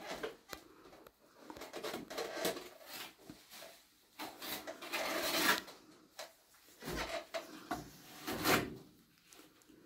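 Irregular rubbing and scraping handling noises come in several separate bursts, the strongest about five seconds in.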